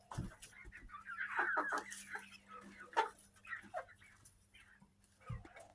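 Chickens in a coop clucking, short scattered calls with a cluster of them between one and two seconds in and a few more after, over a faint steady hum.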